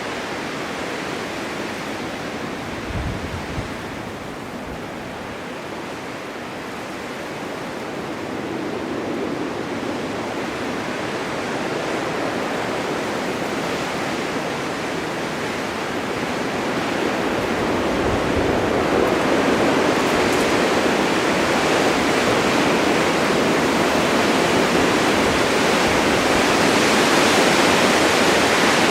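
Blizzard wind driving snow: a steady, even rushing hiss that swells louder from about two-thirds of the way through, with a brief low thump a few seconds in.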